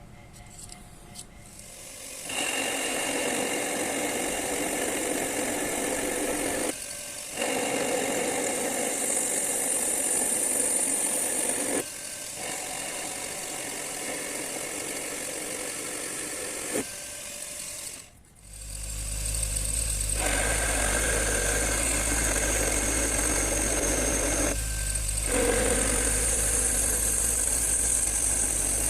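Small hobby metal lathe running as it turns a steel stud blank, with machine noise and cutting sound. It stops briefly several times, nearly stops about eighteen seconds in, then runs on with a steady low motor hum.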